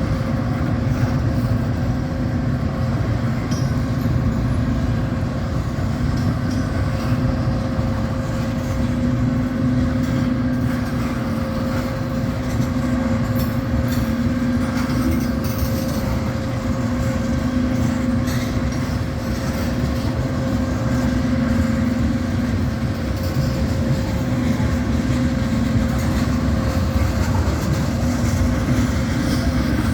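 Steady drone of a moving vehicle running at an even speed, with a constant low hum over rumbling road or track noise and no break or change.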